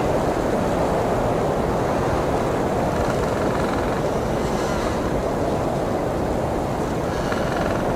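Blizzard wind blowing steadily, a deep, even rush of noise with no gusts or breaks.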